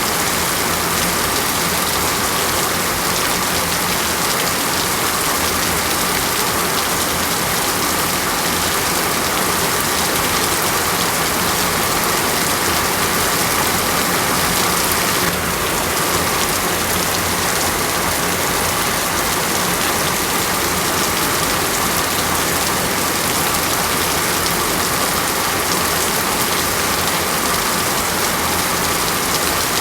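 Steady rain falling, a continuous even hiss of drops with no breaks or changes.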